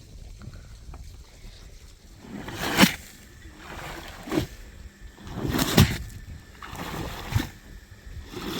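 Water splashing and sloshing in a string of sharp bursts, about one every one and a half seconds.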